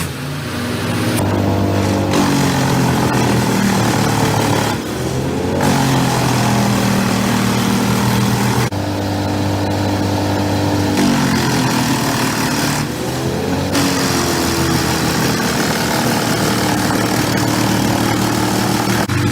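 Large industrial wood chipper's diesel engine and drum running loud and steady. Twice the engine pitch sags briefly and then recovers.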